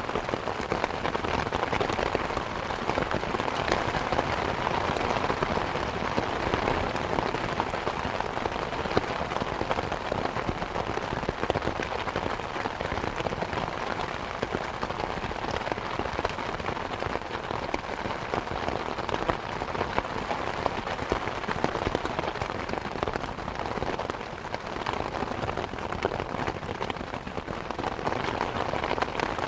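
Steady rain falling, a dense patter of many drops on surfaces that runs on evenly without a break.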